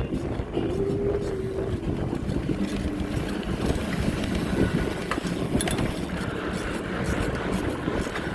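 Wind buffeting the microphone while riding a bicycle, a steady low rumble with a few faint clicks about five to six seconds in.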